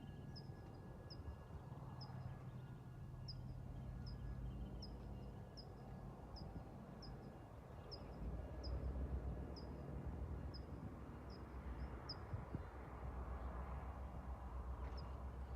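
A small bird chirping over and over, one short high chirp roughly every half second, stopping about twelve seconds in. Underneath runs the low steady rumble of the EMD GP9R diesel locomotive's engine, swelling a little from about eight seconds in.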